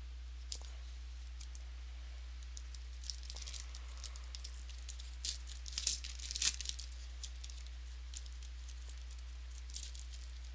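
Trading card pack wrapper being torn open and crinkled, with a cluster of crackling tears about halfway through among scattered light clicks of cards being handled. A steady low electrical hum runs underneath.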